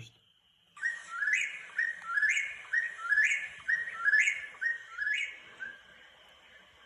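A recording of an eastern whip-poor-will's song played back to call in wild birds. It starts suddenly and gives the rising "whip-poor-will" phrase five times, about once a second, then fades.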